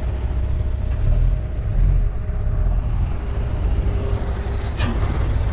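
Car engine running at low revs, a steady low rumble heard from inside the car's cabin, with no revving.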